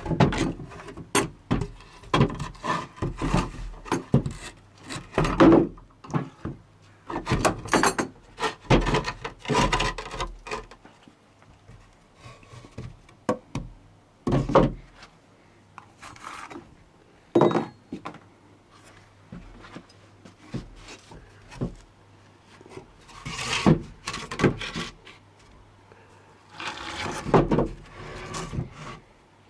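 Irregular scraping, rubbing and clunking of hands and tools working under a car, in clusters with quieter gaps, over a faint steady hum.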